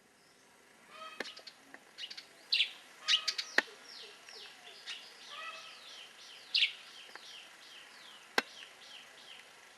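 Wild birds calling: loud chirps, then a fast series of short, high falling notes through the second half. A few sharp clicks stand out, the loudest about a third of the way in and near the end.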